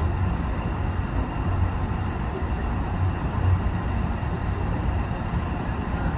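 JR HB-E210 series hybrid diesel train running along the line: a steady low rumble of drivetrain and wheels on rail.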